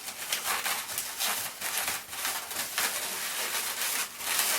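Latex 260 modelling balloon rubbing and squeaking against itself and the hands as it is twisted, in irregular scratchy strokes several times a second.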